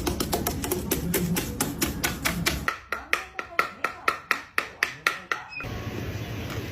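A quick series of sharp taps or clicks, about five or six a second and then slowing to about four a second, that stops suddenly about five and a half seconds in.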